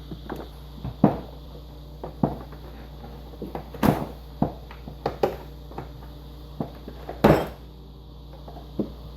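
Irregular metallic clicks and knocks as a refrigerator French-door spring is worked into its hole at the door hinge, the loudest knock a little after seven seconds in, over a steady low hum.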